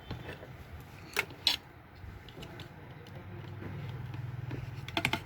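Light clicks and taps from a small IC and hand tools being handled on a TV circuit board: two sharp clicks about a second in, more near the end. A low hum swells in the second half.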